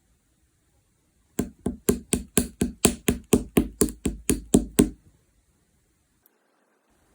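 A quick, even run of about fifteen sharp knocks or taps, roughly four a second, lasting about three and a half seconds, with one faint tick a little later.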